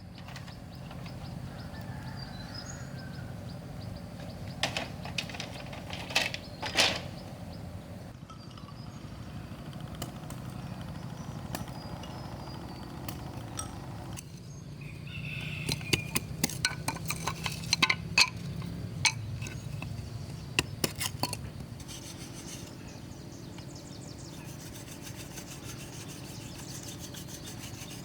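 Bamboo being worked by hand: steady rubbing and scraping on the wood, with scattered sharp clicks and knocks, most of them in two clusters, a few seconds in and again around the middle.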